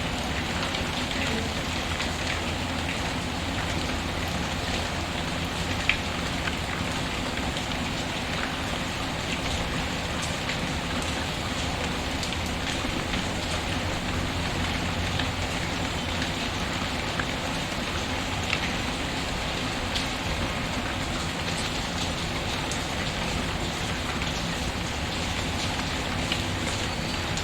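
Steady rain falling, mixed with a wood fire whose occasional sharp pops stand out now and then, the loudest about six seconds in.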